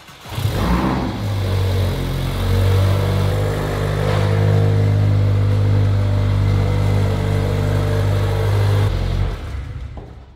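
Mercedes-AMG GLA 45's turbocharged four-cylinder engine running steadily, then stopping about nine seconds in.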